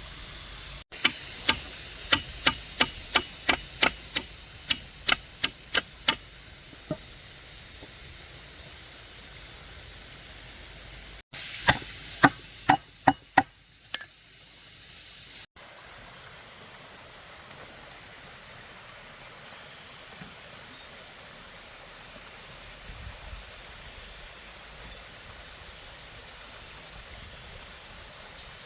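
A hand tool striking repeatedly, about three sharp blows a second, in two short runs. A steady hiss follows for the rest of the time.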